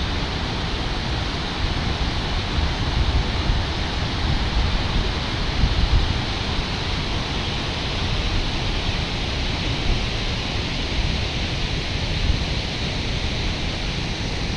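Floodwater rushing in a river in spate: a loud, steady rush of water with an uneven low rumble under it.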